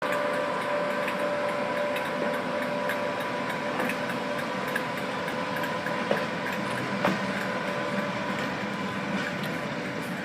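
Class 86 and class 90 electric locomotives running light engine, a steady mechanical hum with a held whine, with a few sharp clicks from the wheels and track about six and seven seconds in.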